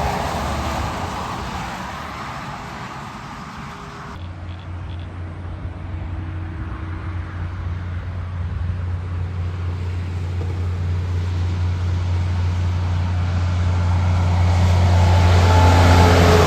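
Heavy trucks passing on a highway: one fades away, then after a sudden cut another approaches, getting steadily louder, and passes near the end with a falling engine pitch.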